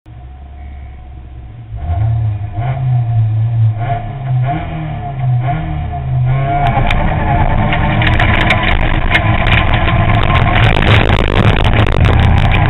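Ford Fiesta ST N3 rally car engine, heard from inside the car. It runs low at first, then is revved hard and held up with blips from about two seconds in. About six seconds in it launches and accelerates at full throttle, with a dense clatter from the loose surface.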